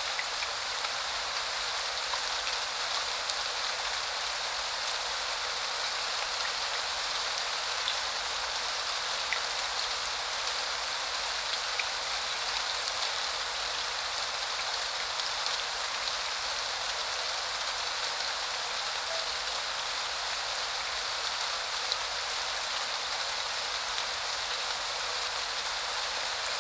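Steady spring rain falling, a continuous even hiss with scattered faint drop ticks.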